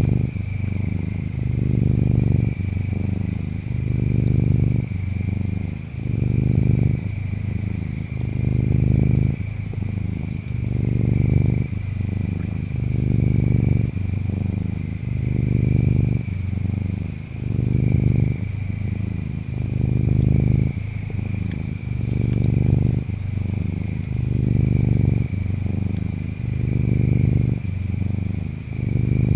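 Cat purring close up: a low rumble that swells and fades about every two seconds with each breath. Behind it, a steady high insect trill and short bursts of very high insect chirps every few seconds.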